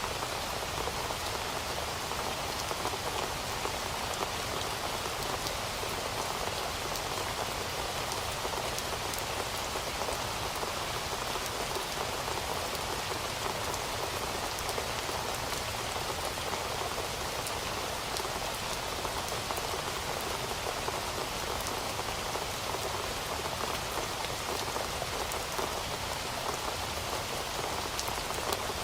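Heavy rain falling steadily, a dense even hiss with fine scattered drop ticks.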